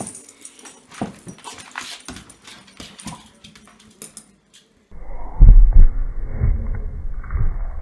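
A dog whimpering among scattered light clicks and knocks. About five seconds in, a dull, muffled recording begins, with loud low thuds and rumble.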